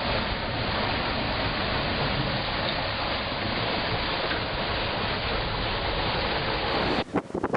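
Steady rushing noise of a sailboat under way, wind and water together, cut off abruptly near the end.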